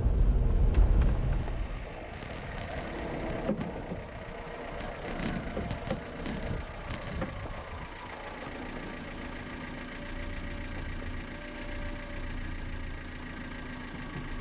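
2005 Suzuki Jimny's engine heard from inside the cabin: a louder low rumble for the first second or two, then a steady idle.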